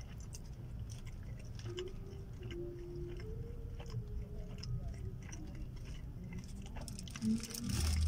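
A person chewing a mouthful of soft egg-and-cheese breakfast sandwich, with faint small wet clicks over a low steady rumble inside a car. There is a short thump near the end.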